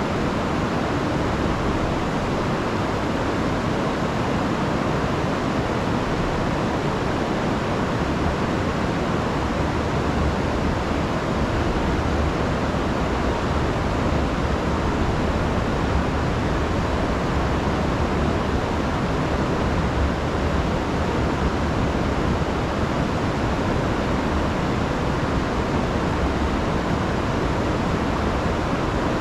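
Rain-swollen river rushing over waterfalls in a steady, loud roar of water, heaviest in the low end.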